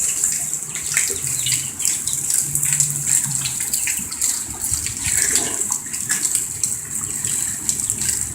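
Water gushing steadily, with many irregular small splashes and crackles.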